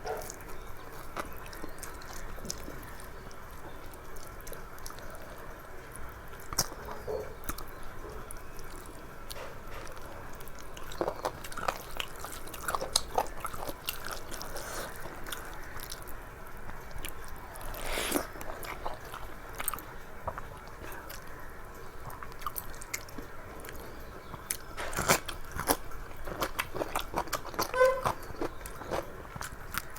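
Close-up eating sounds of a meal of rice and curry with raw onion and cucumber: steady chewing with scattered crunchy bites, wet mouth clicks and smacks.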